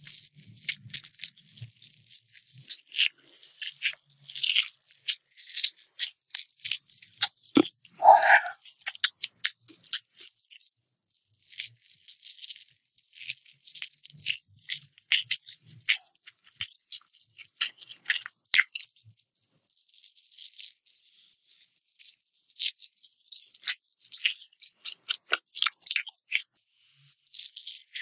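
Close-miked eating: crisp crunching and chewing in irregular clusters of sharp crackles, with one louder, longer sound about eight seconds in.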